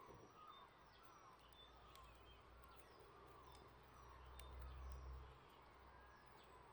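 Faint birdsong: repeated short warbling notes and high falling chirps, with a few faint crackles from a wood fire and a low rumble that swells briefly about two-thirds of the way through.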